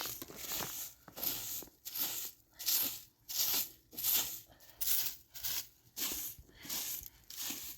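Footsteps crunching through fresh snow at a steady walking pace, a little under two steps a second.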